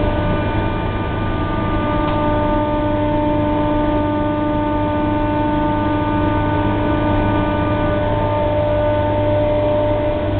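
HVAC equipment in a mechanical room running steadily: a constant hum with several steady whining tones over a rushing noise.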